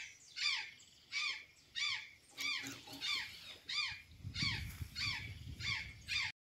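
Azure jay calling over and over: a harsh, downward-sliding call repeated about every 0.6 seconds, around eleven times. A low rumble runs underneath in the second half, and the sound cuts off abruptly just before the end.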